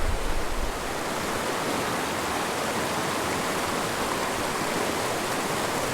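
A mountain river rushing steadily over rocks: an even, unbroken water noise.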